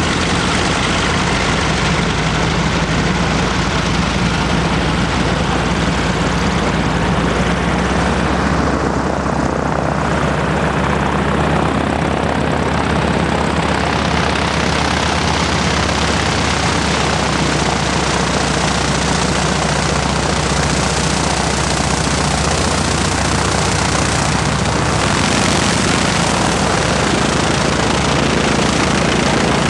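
Propeller aircraft engine running steadily under a loud, constant rush of air, as from a wing-walking biplane in flight.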